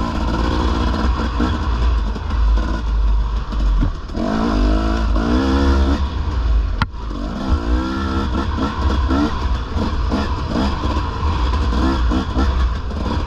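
Dirt bike engine being ridden on a trail, its pitch rising and falling as the throttle is worked, over a constant low rumble. A single sharp knock about seven seconds in.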